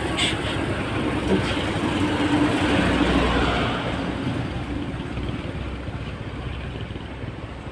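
A motor vehicle passing on the road, its engine and tyre noise swelling to a peak about three seconds in and then fading away.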